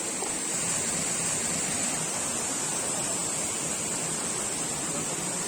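Waterfall pouring down a rock face, a steady rushing of falling water.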